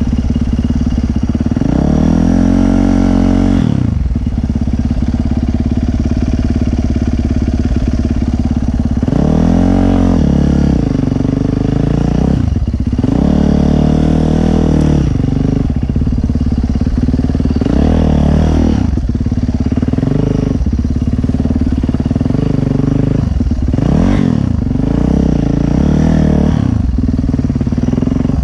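Dirt bike engine running, with the throttle opened and closed about six times, so the revs rise and fall in short bursts over a steady drone.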